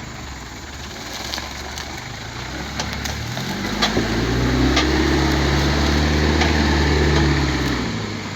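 Truck engine revving up about three seconds in, held at high revs for several seconds, then easing off near the end, with a few sharp knocks and rattles over it.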